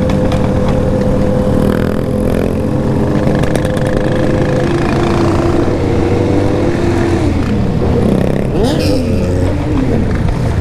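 Several motorcycle engines running together in a group ride, their overlapping engine notes steady at first. In the second half, engine notes sweep down in pitch twice as revs drop.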